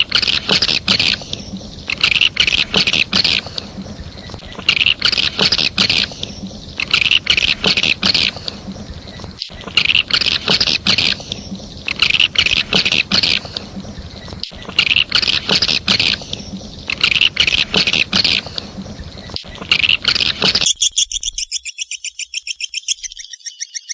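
Swiftlet lure call, the chittering twitter of edible-nest swiftlets, repeated in dense phrases about every two seconds. About 21 seconds in it changes to a thinner, rapid pulsed twitter.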